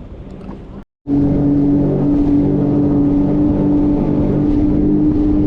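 Jet ski engine running at a steady cruising speed, a loud, even drone that holds one pitch. It cuts in suddenly about a second in, after a brief silence; before that there is only a quieter rushing noise.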